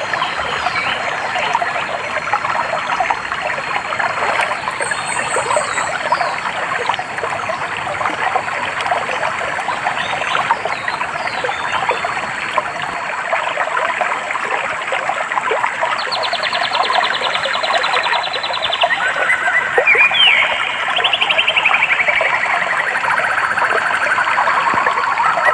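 A stream trickling and babbling over stones, with birds singing over it: a few high chirps early, then rapid trills from a little past halfway that step down in pitch toward the end.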